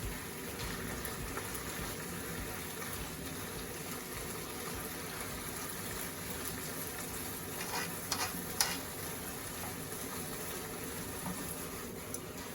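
Yaki udon sizzling in a frying pan as it is stir-fried: a steady hiss, with a few short clicks about eight seconds in.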